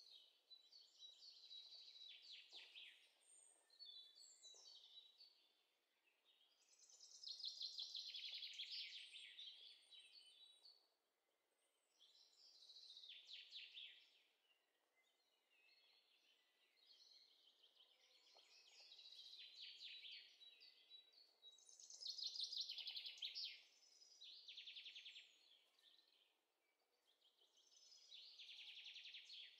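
Faint bird song: repeated high, trilling phrases two to three seconds long, with short pauses between them.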